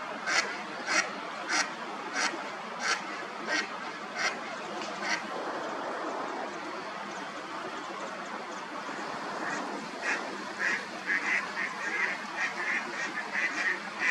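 A bird calling over and over in short calls, about one every half second for the first five seconds. Near the end comes a quicker run of calls, over a steady background hiss.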